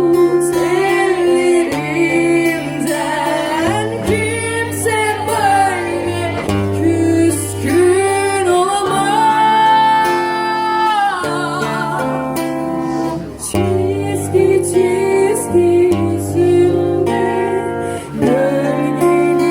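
A woman singing a slow, melodic song to acoustic guitar accompaniment over a sustained bass line, holding one long note about halfway through.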